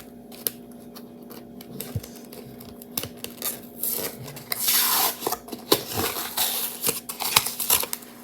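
A collagen peptide powder container being handled and opened: scattered clicks and knocks, with a longer rustling stretch about five seconds in. A steady low hum runs underneath.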